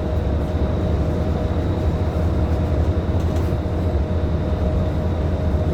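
Scania K310IB city bus's rear-mounted diesel engine running steadily, heard inside the cabin as a continuous low drone with a faint steady whine above it.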